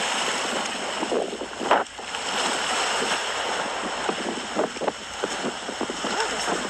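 Small waves washing on a bay shoreline, a steady hiss, with one sharp bump just under two seconds in.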